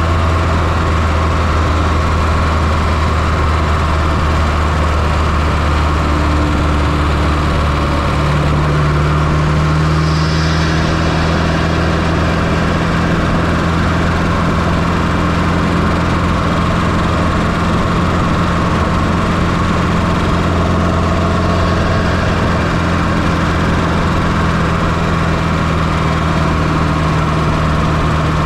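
Fiat Coupe 2.0 16V turbo four-cylinder engine idling steadily, heard up close from inside the engine bay, with a slight shift in its note about eight seconds in.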